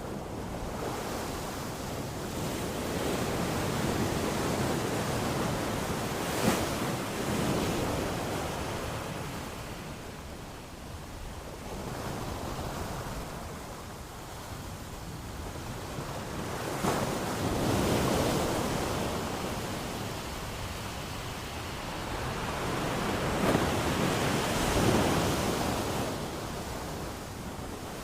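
Ocean surf washing onto a shore, rising and falling in several slow surges.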